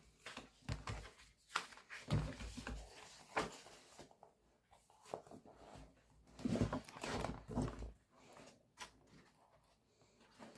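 Unboxing handling of a boxed merchandise set: irregular rustles, taps and clicks as packaging and items are moved, with longer rustling stretches about two seconds in and again around six to seven seconds.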